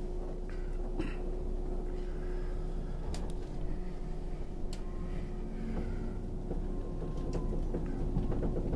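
Interior of an electric express train pulling away from a station: a steady hum with a held tone, a few sharp clicks and knocks, and the running noise growing louder toward the end as the train gathers speed.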